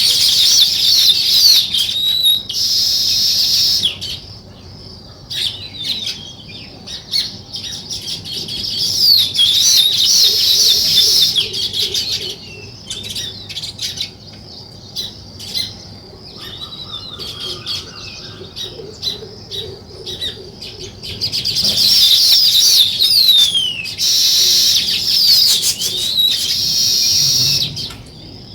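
A group of small songbirds chirping and chattering in dense, loud spells with quieter scattered chirps between. Twice there is a short burst of rushing noise.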